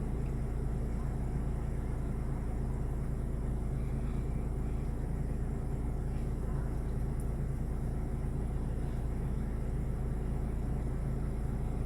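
Steady low rumble of a motor vehicle, even and unchanging throughout.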